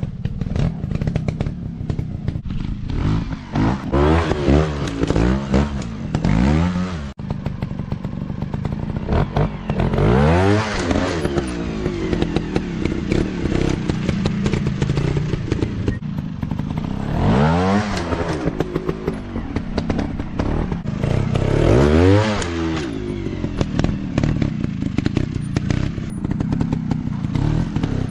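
Dirt bike engines running and revving in repeated throttle bursts, the pitch climbing and falling several times over a steady engine note.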